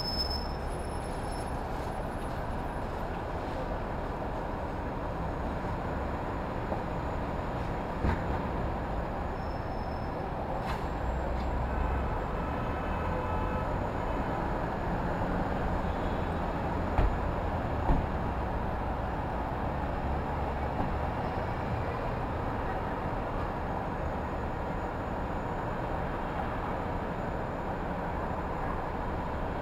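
Steady New York City street ambience: a constant rumbling wash of urban noise. There is one sharp knock about a quarter of the way through and two more in quick succession just past the middle.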